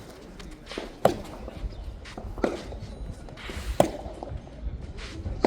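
A soft tennis ball is struck and bounces during a rally, making four sharp pops about one and a half seconds apart.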